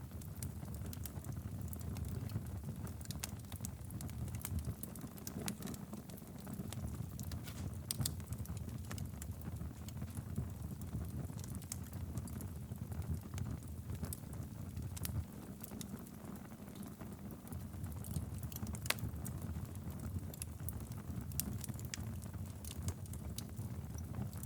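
Wood fire burning steadily in a fireplace, with a low rumble of flames and frequent irregular crackles and pops.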